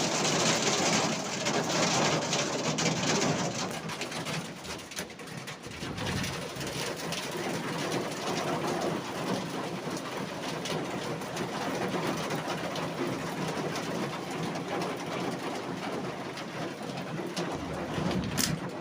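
Heavy rain falling steadily, a rushing hiss that is louder for the first three or four seconds and then settles.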